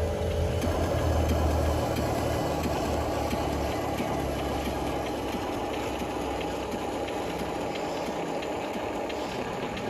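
Steady engine-like running sound from a radio-controlled construction model, with a low hum that shifts in pitch a few times.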